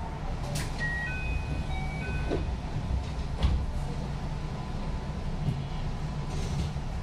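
JR West 221 series electric train running, heard from inside the car: a steady low rumble of wheels on track with a few short knocks. About a second in comes a brief sequence of high chime-like tones.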